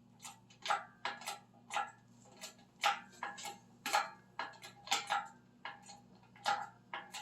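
An engine hoist lifting an engine out of a car, heard as a string of irregular metallic clicks and clanks, about two a second, over a faint steady hum.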